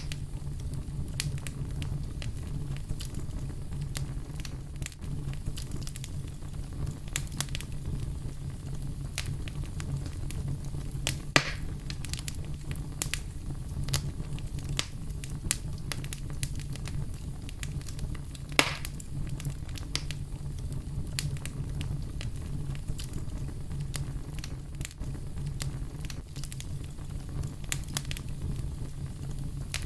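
Wood fire crackling, with many small snaps over a steady low rumble of the flames and two louder pops, one near the middle and one about two-thirds of the way through.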